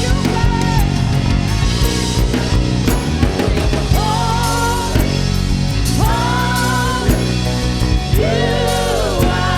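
Worship band music: drum kit and bass under a full band, with long held melody notes sung over it, three of them in a row.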